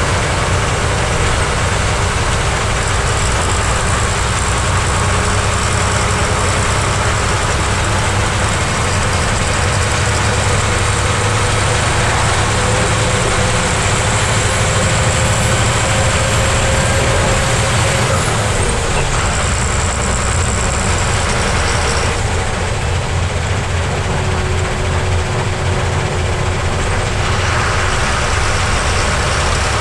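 Heavy truck's diesel engine running steadily under way, heard from the driving position. A faint whine slowly rises in pitch and drops off about two-thirds of the way through.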